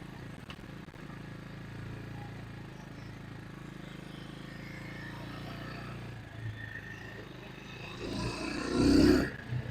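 Single-cylinder four-stroke motorcycle engine running steadily, then swelling louder for about a second near the end.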